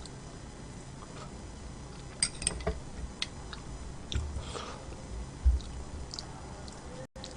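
Close-miked chewing of food, with a few sharp clicks a little over two seconds in and a low thump about five and a half seconds in.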